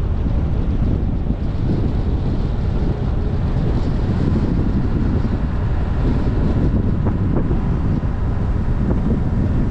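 Subaru Forester coasting downhill on engine braking, heard from a bonnet-mounted camera: heavy wind buffeting on the microphone over steady road and engine noise.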